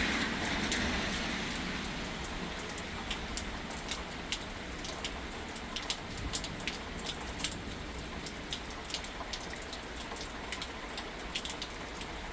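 Thunderstorm rain falling steadily, with many sharp individual drops ticking close by; a heavier rush eases off over the first couple of seconds as the storm lightens.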